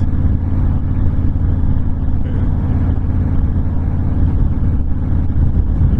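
Honda VTX1300 cruiser's V-twin engine running steadily at cruising speed, mixed with wind noise, as heard from the rider's seat.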